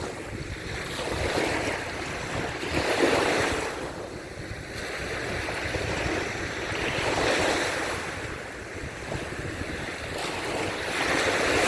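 Sea waves breaking and washing up onto a sandy beach, the surf swelling and fading several times, with wind rumbling on the microphone.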